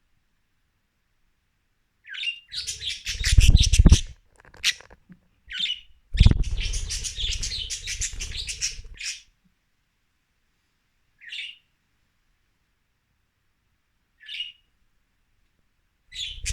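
Budgerigars chattering in two dense bursts of chirps, with a loud low rumble under them, then two short single chirps several seconds apart.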